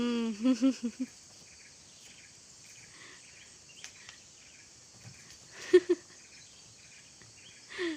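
Steady high chirring of crickets and other insects, with a few short vocal sounds over it; the loudest is a quick pair a little past halfway.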